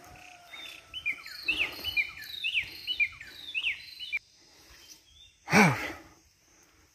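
A songbird singing: a run of sharp chirps repeated about twice a second, which cuts off abruptly about four seconds in. Later, a single loud, short cry falling in pitch.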